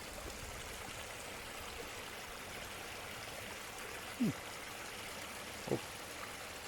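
Small woodland stream running steadily, an even rushing babble, with two short falling sounds about four and six seconds in.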